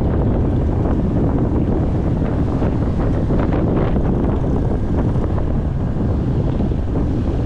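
Heavy wind buffeting on an action camera's microphone on a moving motorcycle: a steady, loud low rumble.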